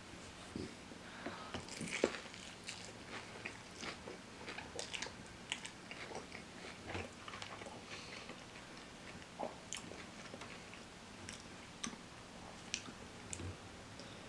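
Faint chewing of fried chicken: soft crunching and small wet mouth clicks scattered throughout, loudest about two seconds in.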